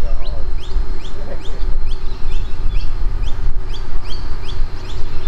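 A bird calling in a steady series of short rising chirps, about three a second, over a continuous low rumble.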